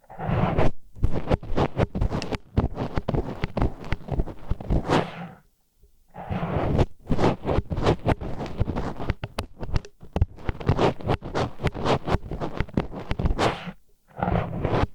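Disposable wooden chopsticks scraping and rubbing in an ear for ASMR ear cleaning, in rapid scratchy strokes. There is a short pause about five and a half seconds in and a brief dip near the end.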